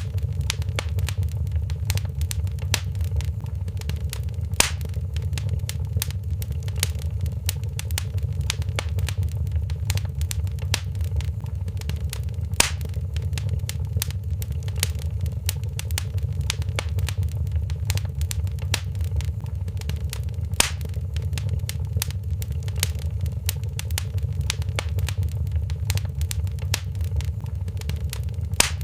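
Wood fire in a fireplace crackling: a steady stream of small snaps over a low, steady rumble, with a louder pop about every eight seconds.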